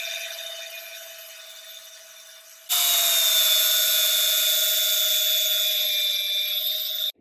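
A small electric power tool running at a steady speed with a constant whine and hiss. It fades away, then about two and a half seconds in it is suddenly loud again, and it cuts off abruptly just before the end.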